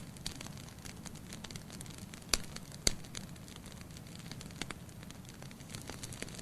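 Wood fire crackling in a fireplace: a steady low rush of flame with scattered small crackles of burning firewood, and two sharper, louder pops a little over two and about three seconds in.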